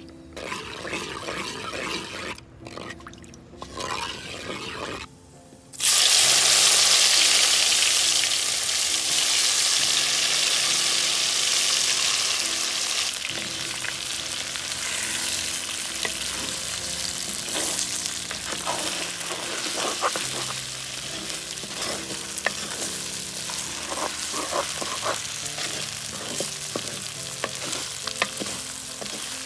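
Stuffed okra frying in hot coconut oil in a clay pot: a sudden loud sizzle about six seconds in as the okra goes into the oil, settling into a steady sizzle. A wooden spoon stirs the okra, knocking and scraping against the pot.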